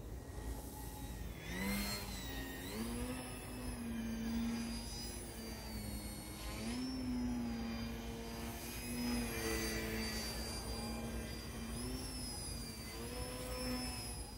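E-flite Eratix flat-foam RC plane's electric motor and propeller whining in flight, the pitch sliding up and down again and again as the throttle is worked through manoeuvres.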